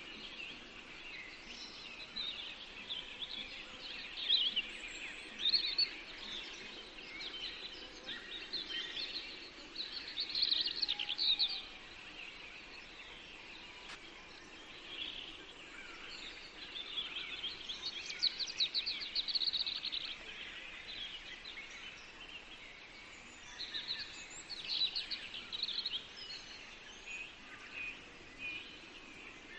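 Forest birdsong: several songbirds chirping and trilling in short phrases, in bursts over a steady background hiss of the woods.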